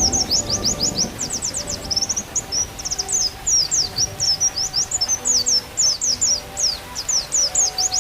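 Pleci (white-eye) singing a fast, unbroken twittering of high, sweeping chirps, with faint held flute notes underneath.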